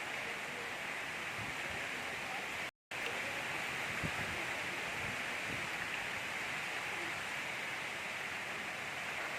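Gentle rain falling as a steady, even hiss, cut by a split-second gap of silence a little under three seconds in.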